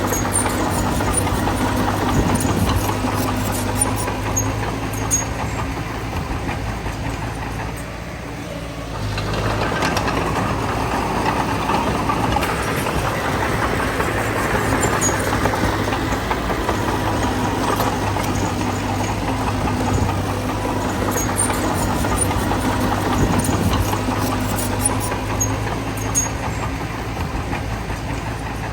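Heavy diesel engine of earthmoving equipment running steadily with a low hum, easing off about eight seconds in and picking up again a second later.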